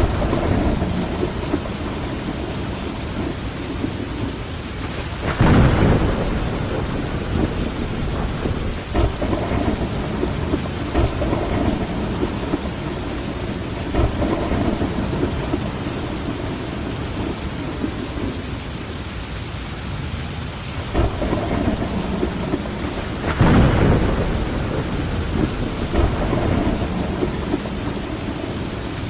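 Steady rain pattering against window glass over a low rumble, which swells louder twice, about five seconds in and again about twenty-three seconds in.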